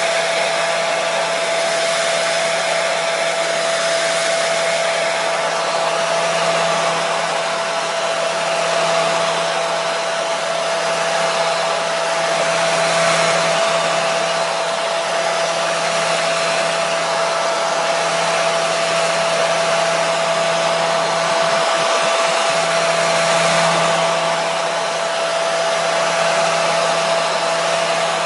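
Hair dryer running steadily: a constant rush of airflow with a steady motor whine, used as white noise.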